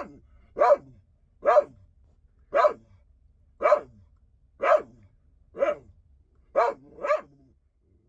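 A dog barking in a steady series of short single barks, about one a second, eight in all, with the last two coming close together.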